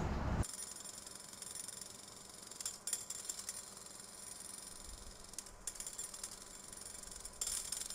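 A freight train rolling past cuts off abruptly about half a second in; after it, only a faint background hiss with a few scattered light mechanical clicks and rattles.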